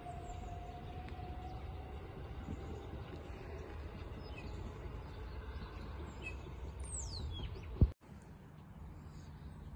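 Distant electric passenger train pulling away: a low rumble with a faint whine rising slowly in pitch. A bird chirps about seven seconds in, just before a sudden loud click and a brief break in the sound.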